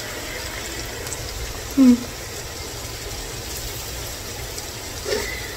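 Ground-beef-stuffed bell pepper rings sizzling in a hot frying pan, a steady even hiss. A person's short hum about two seconds in, and another brief vocal sound near the end.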